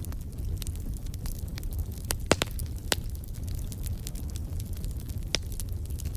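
Fireplace fire crackling, with many small pops over a steady low rumble. The loudest pops come a little past two seconds in, about a second later, and near the end.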